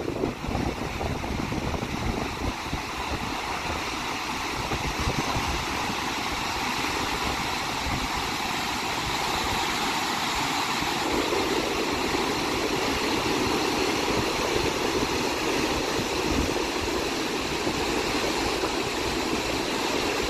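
Barachukki waterfall: a steady rush of falling water, turning a little fuller about halfway through.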